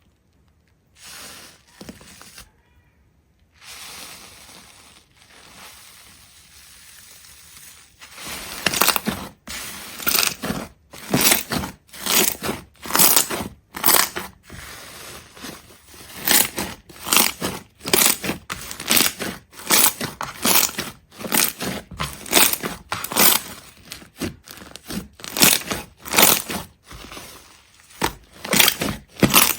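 Faint rustling at first, then from about eight seconds in a steady run of sharp crunches, about one or two a second.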